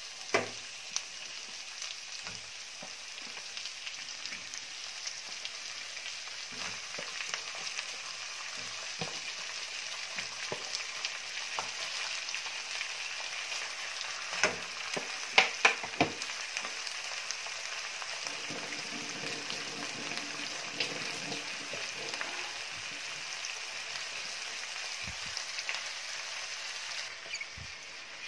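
Raw chicken pieces sizzling as they fry with onions in a pan, a steady hiss. A few sharp knocks and clatters come as pieces are laid in the pan, a cluster of them about halfway through.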